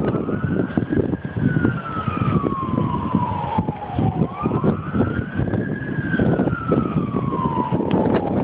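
A siren wailing in slow rises and falls, about four and a half seconds per cycle, under strong gusts of wind buffeting the microphone.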